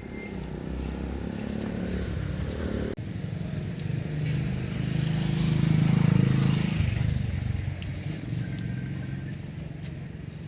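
Steady outdoor rumble of a motor vehicle going past, swelling to its loudest mid-way and then fading. A few short, rising high chirps come through it.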